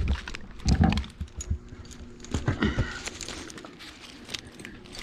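Irregular knocks and light metallic clinking of tree-climbing gear against the trunk, with two heavier thumps, about a second in and about two and a half seconds in.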